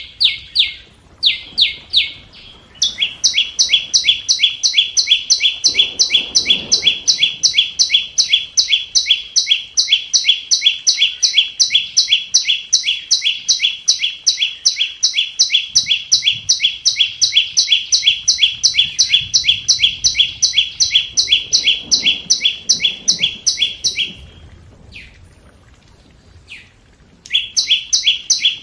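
Scarlet-backed flowerpecker giving rapid, sharp ticking calls, about five notes a second. From about three seconds in, two series at slightly different pitch overlap. Near the end the calling breaks off for a few seconds, with only a couple of single notes, then starts again.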